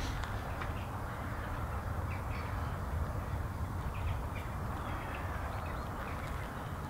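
Outdoor ambience: a steady low rumble with faint, scattered bird calls, among them crow-like caws.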